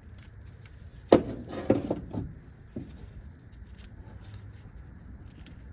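Clicks, knocks and a brief rattle of hard plastic and metal parts being handled while a coil pack and its spark plug wire are worked free of a Toyota 3RZ four-cylinder engine. The loudest knock comes about a second in, a short flurry follows, and one more click comes near the three-second mark.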